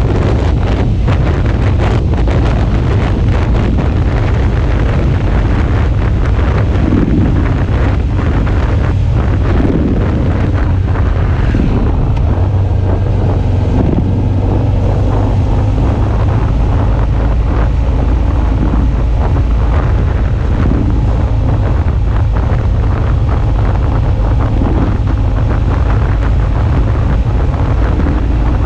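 Wind buffeting an action camera's microphone on a moving Suzuki V-Strom 650 motorcycle, a loud steady rush with the V-twin engine's low hum under it.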